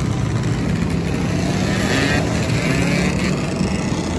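Motor vehicle engine running steadily at constant speed, a loud low drone with a rushing noise above it.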